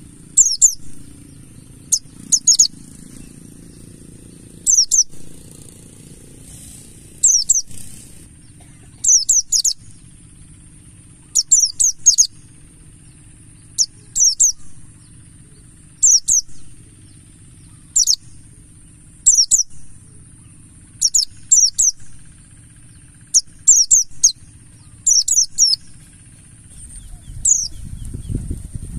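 White-eye (pleci buxtoni) song played as a lure: short, very high chirps that sweep downward, given in clusters of one to three notes about every two seconds over a steady high hiss.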